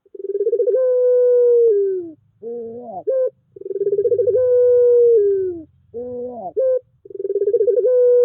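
Puter pelung (Barbary dove) cooing: three long drawn-out coos, each with a trembling start, held steady and then falling, with short rising notes in between. The pattern repeats about every three and a half seconds.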